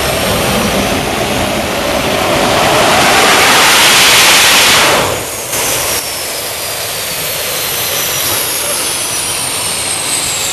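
Rolls-Royce Viper turbojet running: its roar swells to a peak about four seconds in, then drops sharply about a second later and runs on lower, with a high whine slowly falling in pitch.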